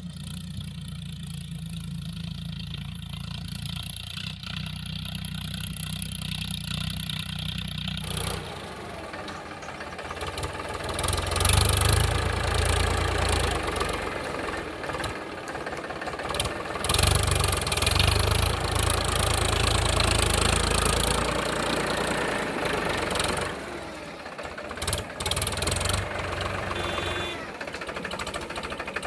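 Tractor engine running: a steady low hum for about the first eight seconds, then louder and noisier, with strong surges in the middle stretch.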